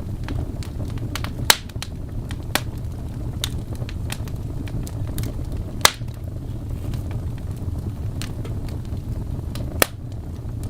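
Wood fire burning in a fireplace: a steady low rumble of flames with scattered sharp crackles and pops, four of them loud and a few seconds apart.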